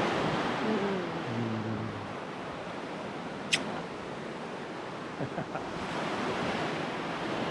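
Ocean surf washing steadily onto the beach, with a brief sharp click about halfway through.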